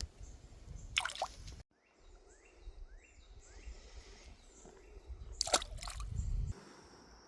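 Two short splashes in creek water, one about a second in and a louder one about five and a half seconds in, over a low rumble. A steady high insect chirring comes in near the end.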